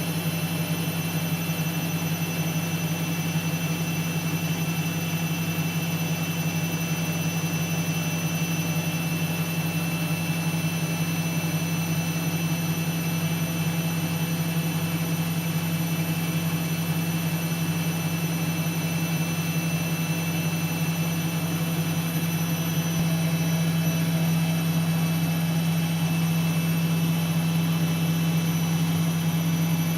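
Siemens Siwamat C10 washing machine running: a steady motor hum with a thin high whine above it, getting slightly louder about three-quarters of the way through.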